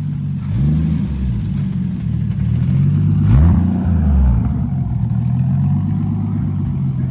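A car engine through a loud aftermarket exhaust, revved twice: a short blip about half a second in and a bigger rev about three seconds in that rises and falls. It then settles back to a steady idle.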